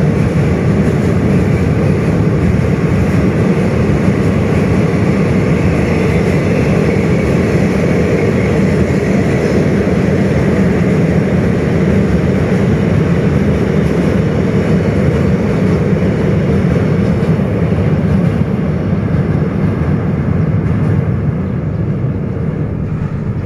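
Freight wagons rolling across a steel arch railway bridge: a loud, steady rumble of wheels on rails and bridge girders that eases off near the end.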